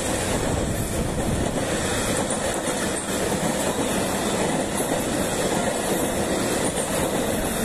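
Passenger train coaches rolling past, their wheels running on the rails in a steady, unbroken rumble.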